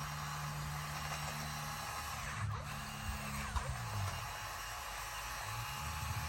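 Bulldozer's diesel engine running steadily, its note dipping in pitch and recovering about halfway through and again near the end, as the engine takes load while pushing.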